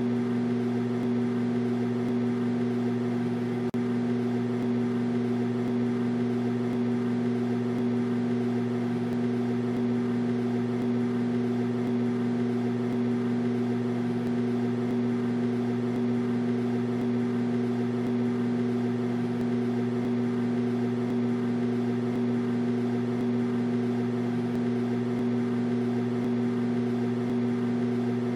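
Microwave oven running: a steady, unchanging electrical hum with a low drone and higher steady tones above it, broken only by a momentary dropout about four seconds in.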